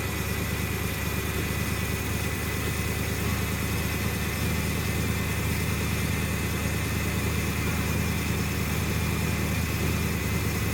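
Car engine idling steadily with the choke being worked; the running gets slightly louder about four seconds in.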